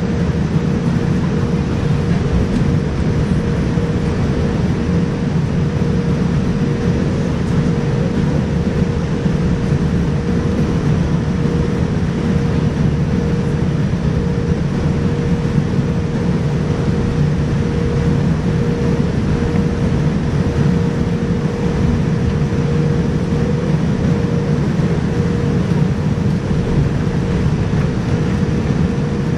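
Cabin noise inside a Boeing 787-9 Dreamliner in flight: a steady rush of engine and airflow noise, heaviest in the low range, with a faint constant hum on top.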